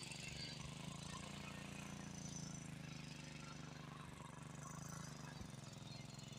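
Tractor engine running steadily with a fast, even chug.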